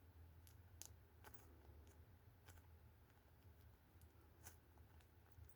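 Near silence: faint, scattered clicks, about nine of them, from hands squeezing a slow-rising foam squishy toy, over a low steady hum.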